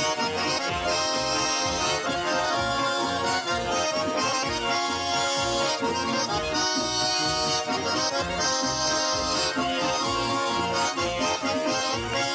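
Accordion playing an instrumental passage of a Russian folk-style song: sustained chords over a steady, pulsing bass.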